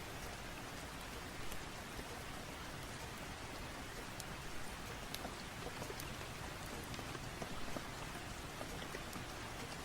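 Steady rain falling, with a wood fire crackling now and then: scattered small sharp pops over the even hiss of the rain.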